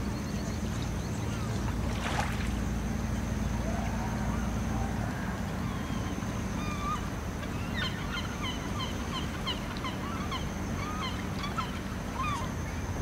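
Birds calling in a quick run of short chirps, thickest in the second half, over a steady low rumble, with a brief rush of noise about two seconds in.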